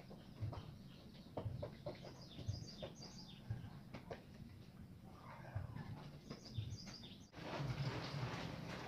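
Birds chirping outdoors, many short falling calls, with scattered light ticks. About seven seconds in, this cuts off abruptly to a louder, steady noise.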